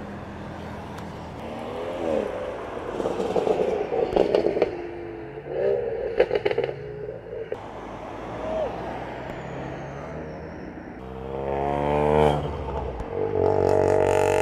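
Modified cars driving past one after another, engines revving and accelerating. Each engine note swells and rises as the car pulls away, with a long rising rev near the end.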